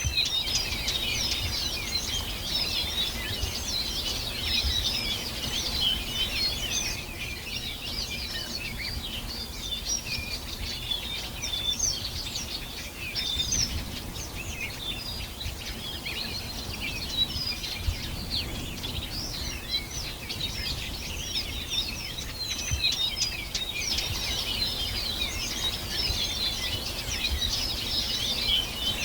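A dense chorus of many songbirds chirping and trilling over one another without pause, with a low rumble of background noise underneath.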